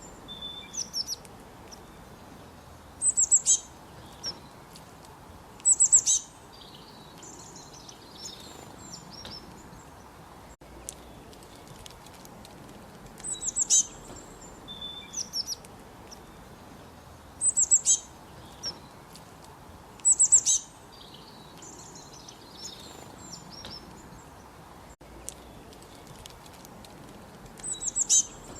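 Songbirds singing short, high phrases of quick falling notes every few seconds over the steady murmur of a flowing creek.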